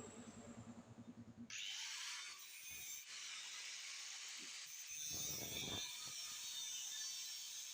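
Saw-like rasping of tool work on lightweight steel hollow section, starting about a second and a half in as a low hum stops, with a few soft knocks.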